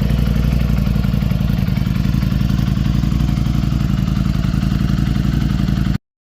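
Ducati Streetfighter V4S's V4 engine idling steadily through a titanium Akrapovic exhaust, a fast, even pulsing beat; the sound cuts off abruptly near the end.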